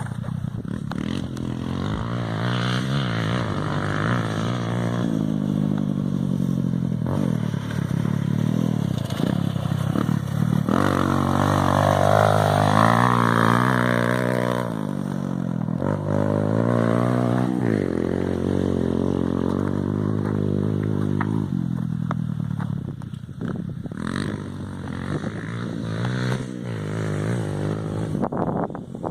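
Motorcycle engine running and revving, its pitch rising and falling again and again, loudest about halfway through.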